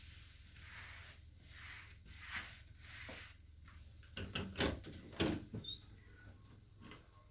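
Cleaning being done by hand: soft rubbing swishes, then a quick cluster of sharp knocks and clicks a little past the middle, as of containers or tools being handled and set down.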